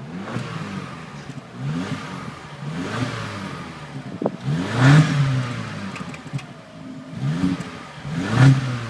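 Corsa OPC's turbocharged four-cylinder engine being blipped through its exhaust while stationary: about six short revs that rise and fall back, the biggest about five seconds in and again near the end.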